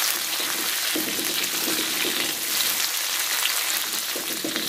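Sliced chillies, garlic and shallots sizzling steadily in hot oil in a wok as a spatula stirs them.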